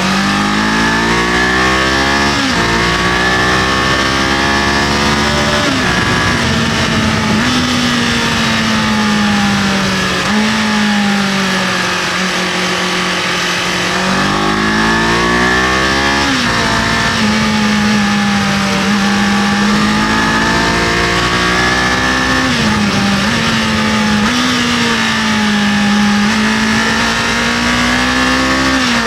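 Kawasaki KLE500's parallel-twin engine under way, its revs climbing and falling repeatedly, with several sudden drops in pitch as from gear shifts or closing the throttle. Steady wind and road hiss run beneath it.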